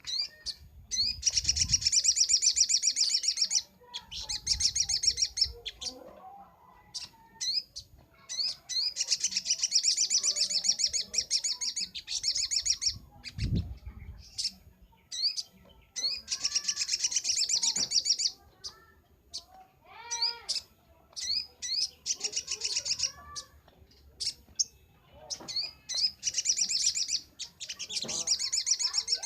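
Sogok ontong (little spiderhunter) singing: rapid high chattering trills in bouts of one to three seconds, about six of them, with short single call notes between.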